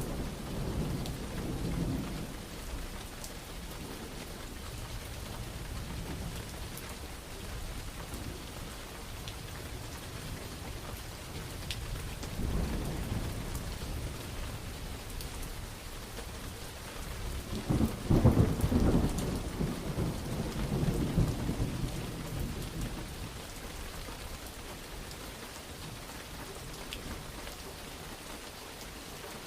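Thunderstorm: steady heavy rain with rolls of thunder, a low rumble about twelve seconds in and a louder, longer one lasting several seconds from about eighteen seconds in.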